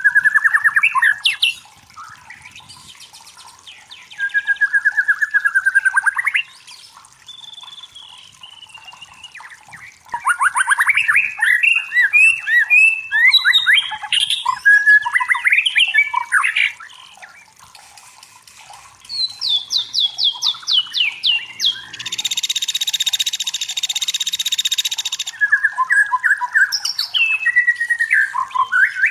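White-rumped shama singing in loud bursts of varied whistles, slurred notes and rapid trills, with short pauses between phrases. About three quarters of the way in, a harsh buzzing call lasts about three seconds.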